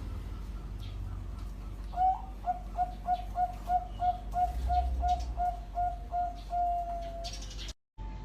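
Zebra dove (perkutut, Bangkok type) singing: about two seconds in, a run of about fifteen short, even coos at roughly three a second, ending on one longer drawn note. A low steady hum lies underneath, and the sound drops out briefly near the end.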